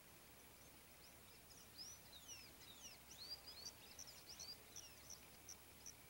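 Faint high chirps and whistles of small birds: a tangle of overlapping rising and falling notes from about a second and a half in, then a short high note repeated about twice a second near the end.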